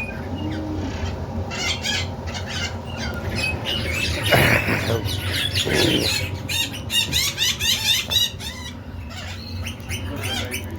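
Many birds chirping rapidly and overlapping, with a louder squawk about four seconds in and another shortly after.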